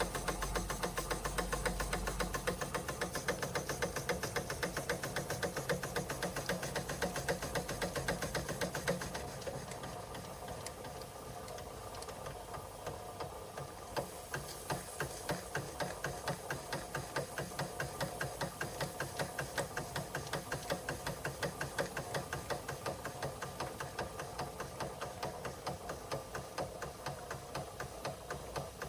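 Märklin 4149/9 live steam engine running with a quick, even mechanical beat of about four strokes a second. About nine seconds in it eases off and slows, then settles into a quieter steady rhythm of about two strokes a second.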